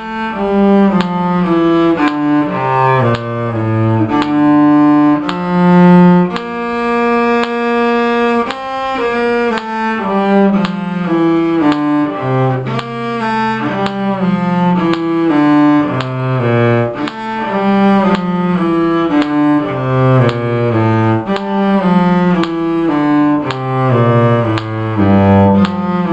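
Solo cello bowing a simple melody in a steady tempo, while a metronome click ticks the quarter notes.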